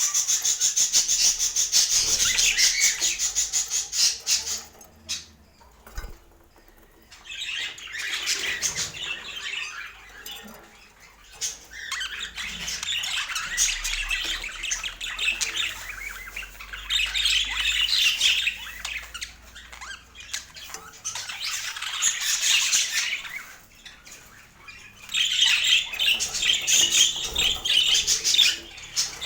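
Pet budgerigars chattering and chirping in several bouts of rapid, high warbling, with short pauses between them.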